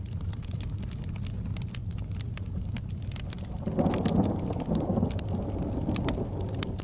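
Steady rain with fireplace crackles snapping throughout. About halfway in, a roll of distant thunder swells up and rumbles for about three seconds before fading.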